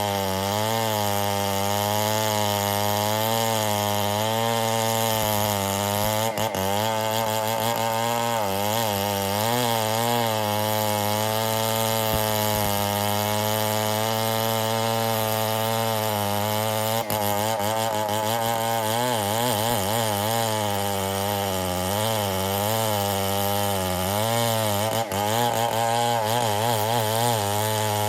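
Stihl MS 070 chainsaw, a large two-stroke saw, running under load as it cuts through an ironwood log. It runs continuously, with its pitch wavering up and down as it works in the cut.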